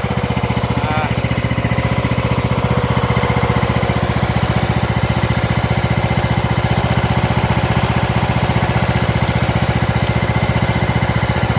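Craftsman DLS3500 riding lawn mower's engine running steadily, with an even firing rhythm and no change in speed.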